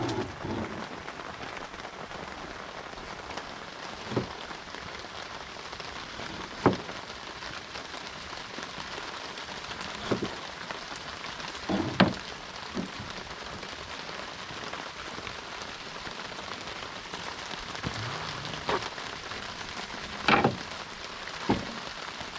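Steady rain falling, an even hiss, with occasional sharp knocks and clinks scattered irregularly through it.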